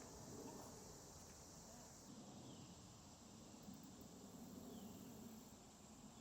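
Faint outdoor ambience: a steady high insect drone, with two brief, faint falling chirps. The drone changes abruptly about two seconds in.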